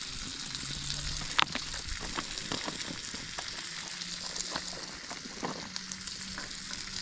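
Chopped mushrooms, onions and peppers sizzling steadily on a hot Blackstone flat-top griddle, with scattered small taps and clicks and one sharper click about a second and a half in.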